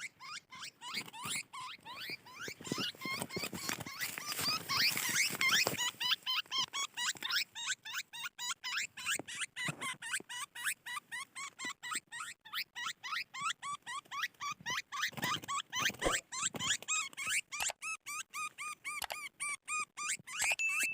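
Small birds giving short, high squeaky chirps in a rapid run, about four a second, busiest a few seconds in.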